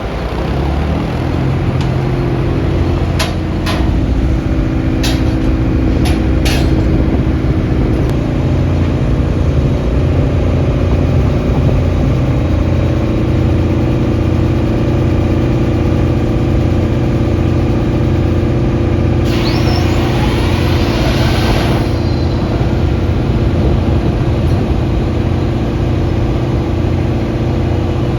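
Dv12 diesel locomotive's engine starting up and settling into a steady, throbbing idle, with a few sharp clicks in the first several seconds. About two-thirds of the way through, a burst of hissing air lasts a couple of seconds.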